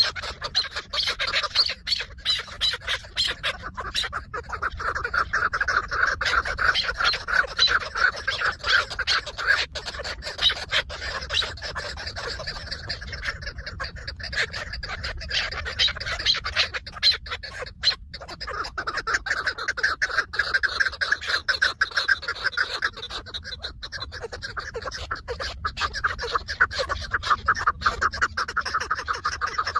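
Chukar partridges calling: a long run of rapid, repeated clucking notes that keeps going without pause, busiest in the middle and near the end.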